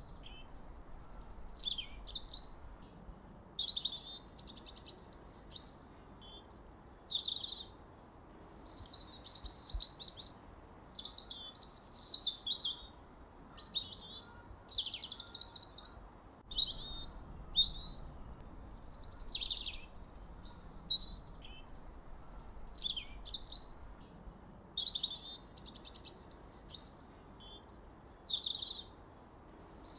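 Songbird chirping: short, high, fast-trilled phrases one after another, with brief pauses between them.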